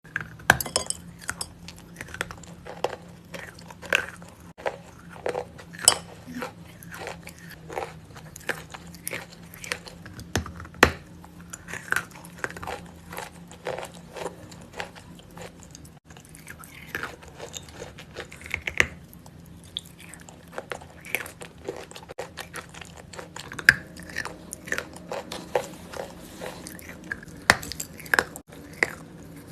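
Edible clay being bitten and chewed close to the microphone: 'zefir' pieces of pressed natural clay in a paste of assorted clays, giving a run of irregular crisp crunches and crackles with several sharper, louder bites.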